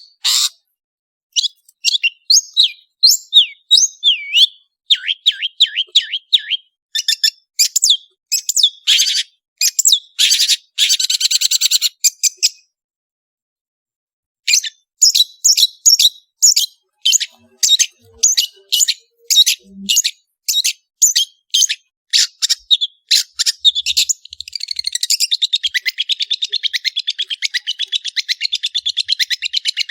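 Long-tailed shrike (cendet) singing a fast run of varied chirps and whistles. It stops dead for about two seconds a little before halfway, then carries on and breaks into a rapid, continuous rattling series of notes near the end.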